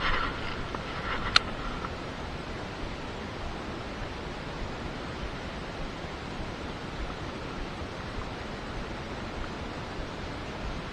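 Steady, even rushing hiss of outdoor background noise, with one sharp click about a second and a half in.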